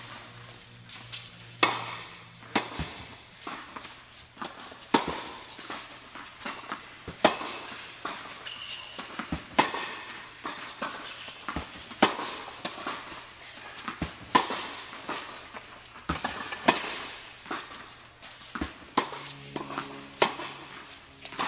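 Tennis balls being hit with rackets in a rally: a sharp pock every two seconds or so, with fainter knocks from bounces in between.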